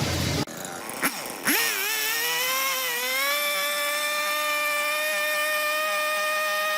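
An electric power tool starting up: its motor whine climbs quickly to speed about a second and a half in, then runs at a steady pitch.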